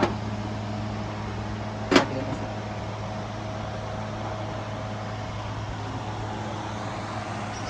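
A steady low machine hum with a few fixed tones, and a single sharp knock about two seconds in.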